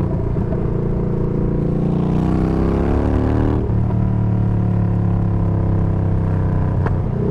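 Yamaha Bolt's air-cooled V-twin running through a Bassani radial-sweeper exhaust with the baffles removed, heard from the moving bike. It holds a steady pitch, climbs as the throttle is opened from about two seconds in, then drops back suddenly near the four-second mark and settles to a steady run again.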